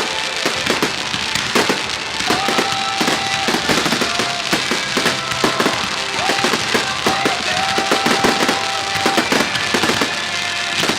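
Fireworks going off in quick succession, many bangs and crackles a second, over music from the show's soundtrack.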